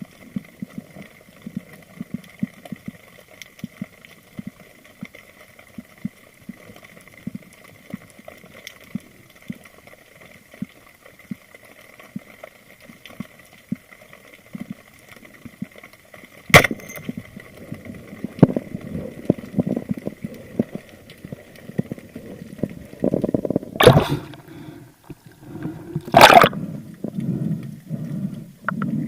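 Underwater sound recorded while spearfishing: steady faint clicking with a thin high whine. About halfway through comes a single sharp crack, followed by louder low sloshing and water movement and two more loud knocks near the end.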